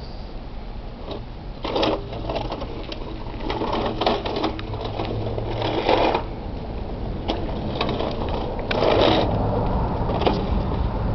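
Tonka toy truck being pushed and handled, its wheels and plastic parts clattering and clicking irregularly, with louder rattling stretches about two, four, six and nine seconds in.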